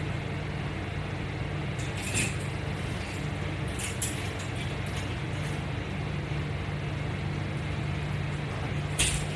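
Steady low hum with a constant hiss, broken by a few faint clicks about two, four and nine seconds in.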